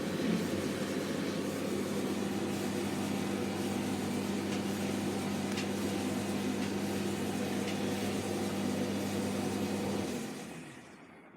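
Hotpoint FETV60 tumble dryer running, its motor giving a steady hum with the drum's rumble and a few faint ticks, on freshly fitted drum bearings. The sound dies away near the end.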